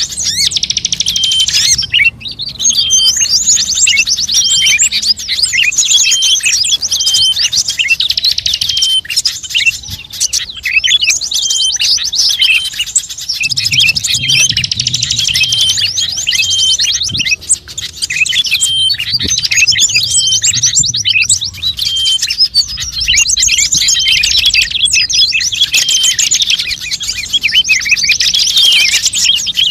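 Bird-luring call recording: dense, fast, high chirping and twittering of small songbirds, with one phrase repeating every second or two.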